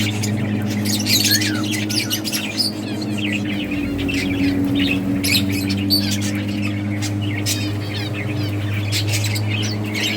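Several budgerigars chirping, warbling and squawking over one another in quick, overlapping calls, over a steady low hum.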